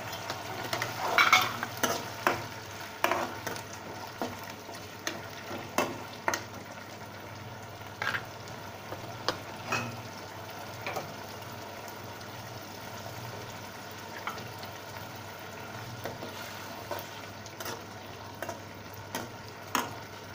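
Onions and freshly added tomato puree sizzling in oil in a metal kadhai, with a steel ladle scraping and clicking against the pan as it stirs. The clicks come thickest in the first few seconds, then at scattered intervals over the steady sizzle.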